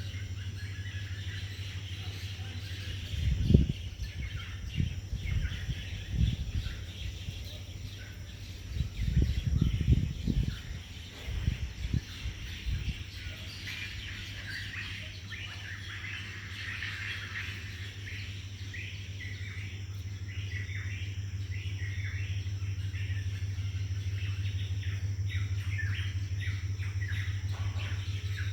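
Many birds chirping and calling together in mangrove forest, over a steady low hum. Loud low rumbles break in about three seconds in and again from about nine to thirteen seconds.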